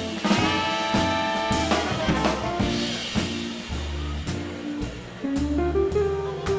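Swing band playing live: the horn section (saxophones, trumpet, trombone) holds chords for the first couple of seconds, then the upright bass and drum kit carry on with a walking pulse and cymbal strokes.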